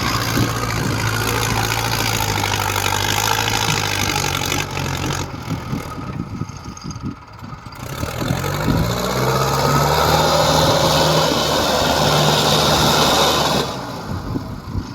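Mahindra Arjun 555 tractor's diesel engine labouring under a heavy load of soil up a steep ramp. It runs steadily, eases off about six seconds in, then revs up again and holds higher and louder before dropping back near the end.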